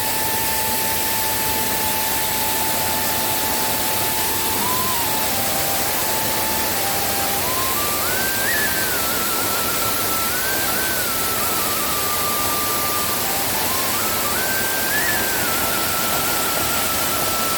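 A waterfall in heavy flow, a loud steady rush of water, with a slow one-line melody of long held notes playing over it.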